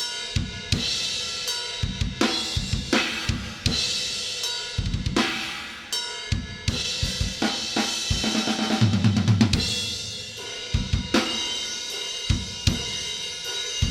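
Playback of a metal drum recording: fast kick drum, snare hits and cymbals, heard with the VCA compressor plugin bypassed. A low sustained tone sounds under the drums a little past the middle.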